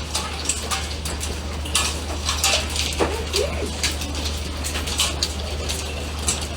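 Irregular clicking and clattering impacts, like small hard objects striking, over a steady low hum; a brief gliding call or voice sound comes about three seconds in.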